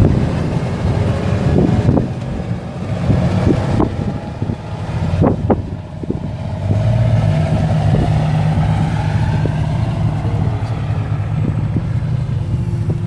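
Semi truck's diesel engine running at low speed, with a few sharp clicks or knocks around the middle; the engine note swells about seven seconds in.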